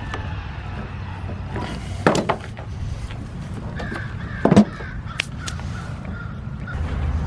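Two sharp knocks, about two and four and a half seconds in, from hand tools working on a lawn mower's carburetor, over a steady low hum. A faint, wavering, squeal-like tone runs through the middle.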